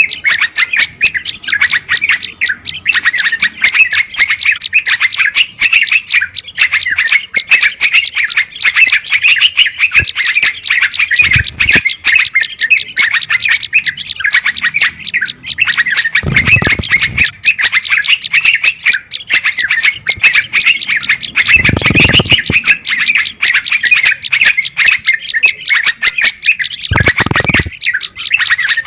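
Bird-lure recording of agitated songbird chatter: a dense, unbroken stream of rapid high chirps and calls, the kind of noisy alarm calling used to draw in wild bulbuls and prenjak. Four times a short, deeper note cuts through the chatter.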